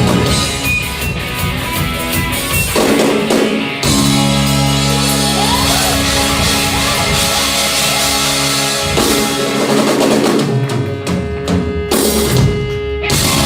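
Rock band playing live: drum kit and electric guitar in an instrumental passage with no vocals, with a held note near the end.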